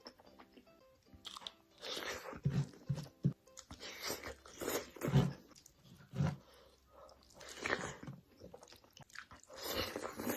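Close-up crunchy biting and chewing of food: a series of crisp bites and crunches with short pauses between them, over soft background music.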